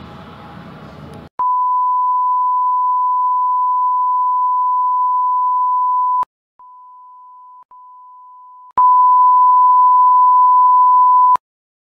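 Television test-signal tone: a steady 1 kHz reference tone sounding with colour bars. It starts about a second in, when a burst of rushing noise cuts off. The tone drops much quieter for about two seconds with a brief break, then comes back loud until it cuts off near the end.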